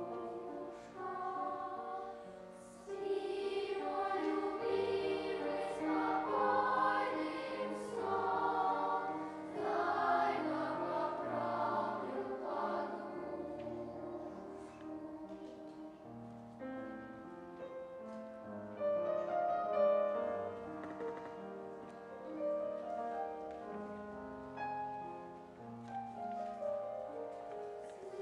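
Children's choir singing an Estonian folk lullaby in several voice parts, slow held notes that swell and fade.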